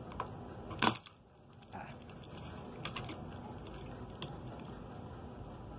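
Small, sharp plastic clicks and taps of scissor blades working at a plastic model locomotive shell to pry it off, scattered and irregular, the loudest click about a second in.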